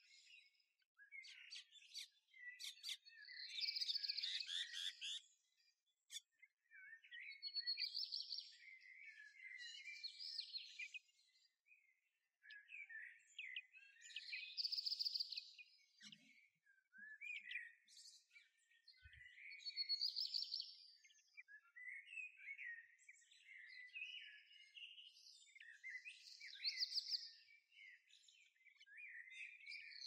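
Songbird singing: a warbling phrase of about a second and a half, repeated every four to six seconds, with quieter twittering between the phrases.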